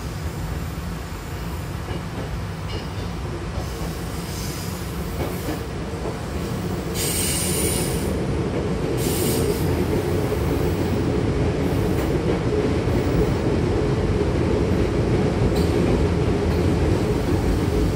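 Hankyu Takarazuka Line electric train running, heard from inside the car by the doors: a steady rumble of wheels on rail that grows louder about seven seconds in. Brief high wheel squeals come twice, around seven and nine seconds in.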